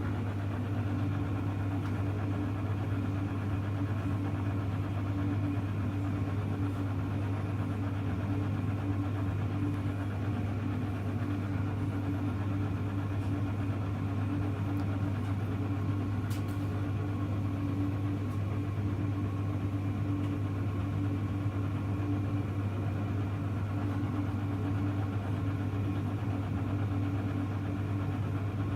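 Steady, unchanging mains hum from a paused Hoover Electra front-loading washing machine while it heats its wash water; the drum is not tumbling.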